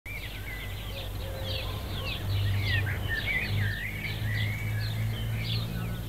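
Songbirds chirping and singing, many short overlapping calls and warbles, over a steady low hum.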